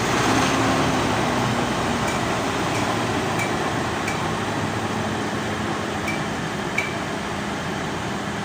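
Car engine idling steadily just after being started by a remote-start system, a little louder at first and then settling. A few faint short chirps come and go over it.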